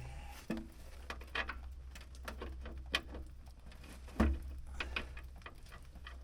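Scattered clinks and knocks of metal parts being handled and set in place, with one louder thump about four seconds in, over a steady low hum.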